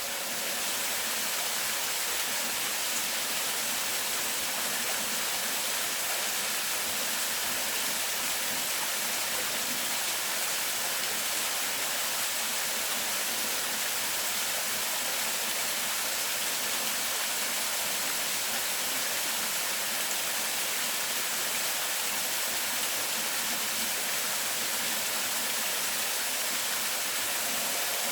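Rushing water, a steady and even rush that never lets up.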